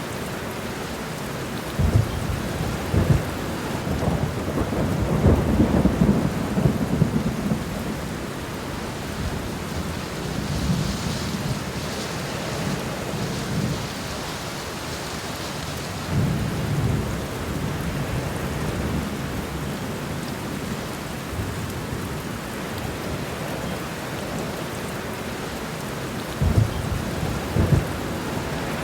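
Steady rain falling, with several short low rumbles and thuds scattered through it, the longest lasting about two seconds, around a fifth of the way in.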